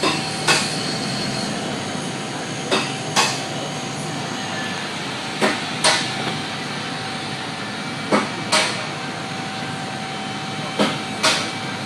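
Pairs of sharp mechanical knocks over a steady running noise, the two knocks about half a second apart and the pair repeating evenly about every 2.7 seconds, five times.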